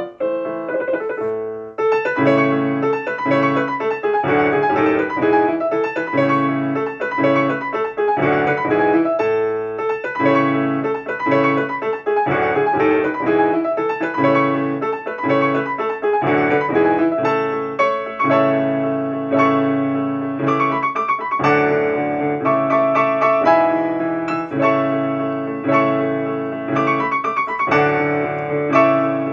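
Piano music: notes played in a quick, even rhythm.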